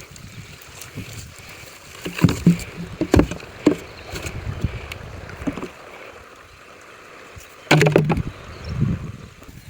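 Scattered knocks and thuds over a steady hiss, with a cluster about two to four seconds in and the loudest, a heavier thud, near the end.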